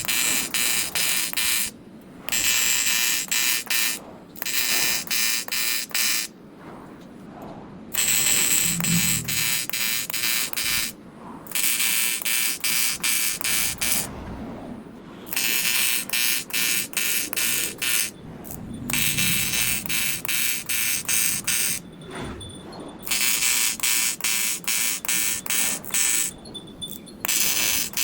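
AC TIG welding arc buzzing on aluminum, its harsh buzz pulsing several times a second. The arc is struck in runs of a few seconds with brief breaks between them.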